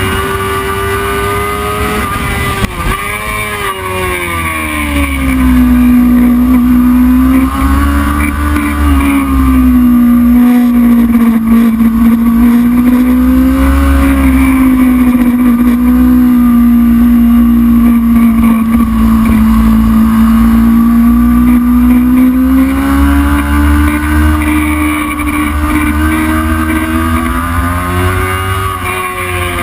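Racing motorcycle engine running hard at high revs over a low wind rumble. The pitch dips and recovers about three seconds in, holds fairly steady for most of the time, rises a little late on and drops near the end.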